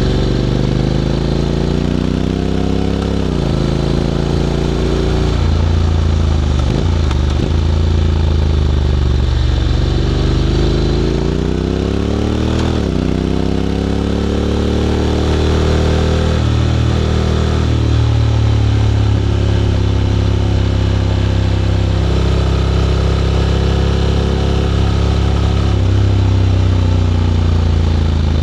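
Honda X-ADV 750 parallel-twin engine through an SC-Project titanium slip-on exhaust, accelerating through the gears: the engine note climbs and drops sharply at each automatic (DCT) upshift, about three, seven and thirteen seconds in, then holds fairly steady while cruising.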